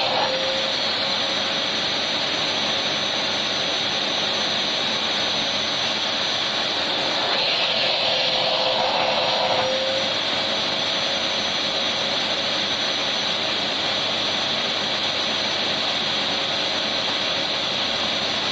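Vacuum cleaner running continuously: a loud, even rush of air with a steady high motor whine and a lower hum, swelling slightly about eight seconds in.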